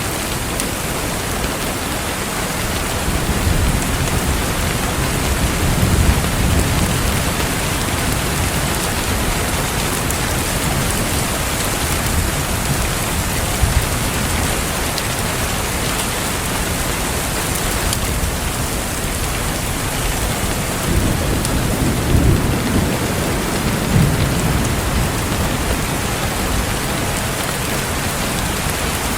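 Steady rain falling, with a few faint fireplace crackles. Twice, a low rumble swells up and fades: once a few seconds in and again about two-thirds of the way through.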